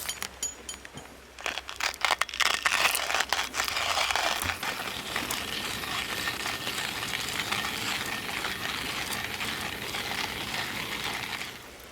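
A few sharp clicks, then a steady, dense crackling hiss that stops abruptly near the end.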